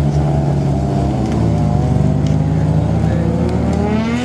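Mazda RX-7 rotary engine running at a steady pitch, then rising in pitch in the last second or so as the revs climb.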